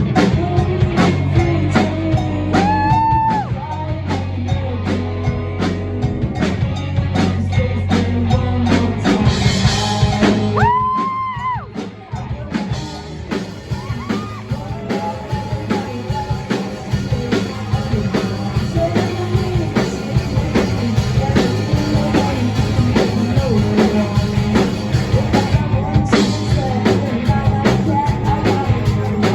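A rock band playing a song with singing, drums and guitar, with backing vocals; sung notes are held about 3 and 11 seconds in.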